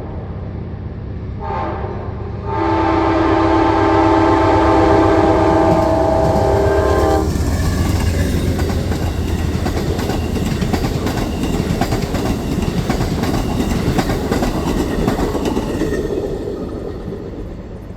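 Passenger train's locomotive horn, a chord of several tones, sounds a short blast and then a long blast of about five seconds over the deep rumble of the diesel locomotive. The train then rushes past with rapid clicking of wheels over the rails, easing off near the end.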